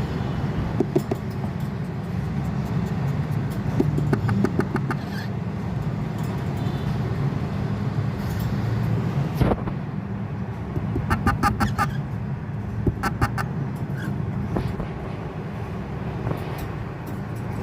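Cockatiels chattering in a few short bursts of rapid clicking chirps, over a steady low rumble.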